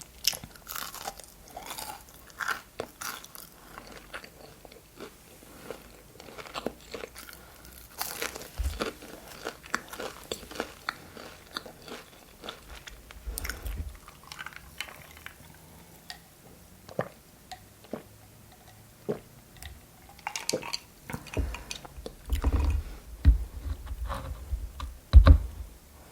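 Close-miked eating: a person biting and chewing crunchy food in irregular crunches, with several louder low thumps near the end.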